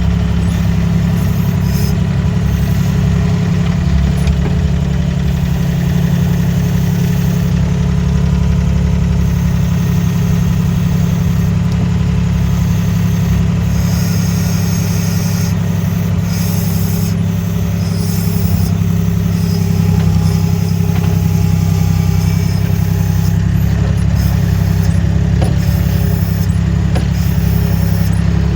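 Skid steer loader's engine running steadily, a constant low drone with no change in speed.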